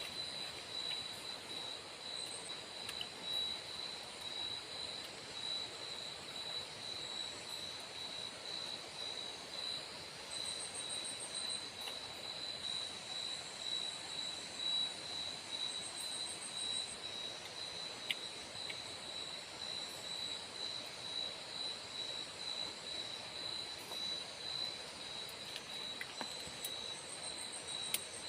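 Tropical forest insects: a steady, high, slightly pulsing drone runs throughout, and short chirping trills come in at a higher pitch now and then, over an even background hiss. A few faint clicks sound near the middle and near the end.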